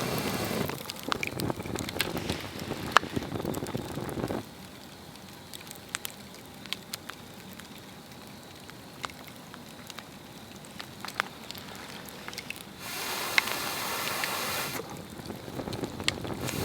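Swedish torch log fire burning, with scattered sharp crackles and pops of the burning wood. A louder rushing sound fills the first four seconds or so and comes back from about 13 to 15 seconds; the crackling runs on more quietly in between.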